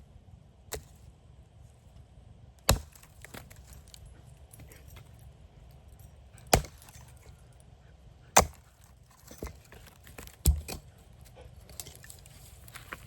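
Wood being chopped: four loud, sharp strikes a few seconds apart, with a fainter knock shortly before the first.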